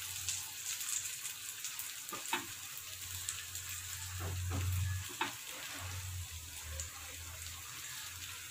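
Kuzhi paniyaram frying in a little oil in the wells of a paniyaram pan, a steady sizzle, with a few light knocks as a utensil turns them over in the pan.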